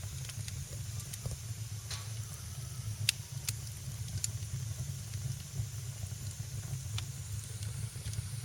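Wood fire in a fireplace crackling: scattered sharp pops, the sharpest about three seconds in, over a faint hiss and a low steady rumble.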